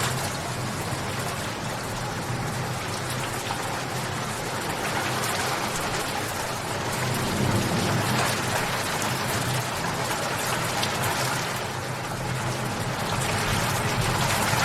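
Steady rain falling, an even hiss of drops with gentle swells in loudness.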